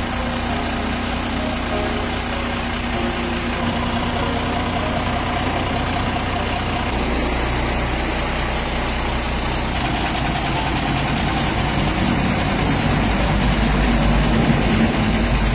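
Chenglong truck engine running at idle, steady, getting a little louder and heavier near the end.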